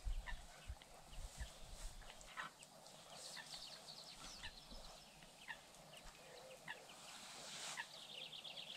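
Faint birdsong: scattered high chirps and two short, rapid trills, one about three seconds in and one near the end.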